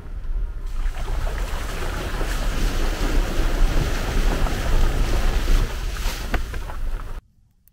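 Wind buffeting the microphone: a loud, gusting rumble with a rough rushing hiss over it, cutting off abruptly about seven seconds in.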